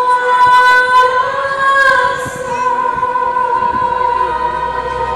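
Fireworks show soundtrack music: a choir of voices holding a long sung chord, the upper note dropping out about two seconds in while the lower notes carry on.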